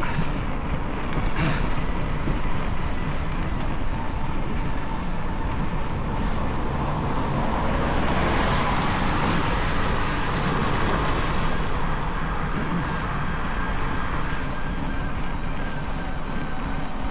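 Wind buffeting the microphone of a handlebar-mounted camera on a moving bicycle: a steady, heavy rumble, with a louder rush of hiss swelling about eight seconds in and easing off around twelve seconds.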